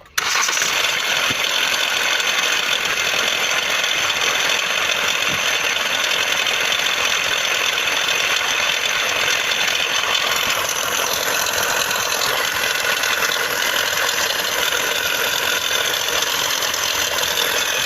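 Car engine idling steadily with a rattle, here tied to the air-conditioning compressor whose clutch pulley bolt had loosened.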